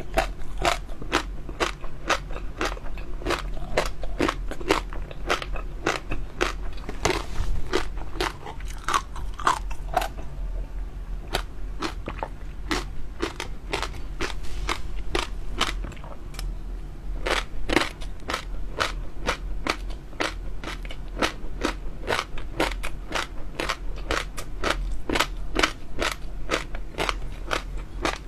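Close-miked chewing of crunchy jelly pearls: rapid crisp crackling clicks, several a second. They thin out for several seconds midway, then pick up again.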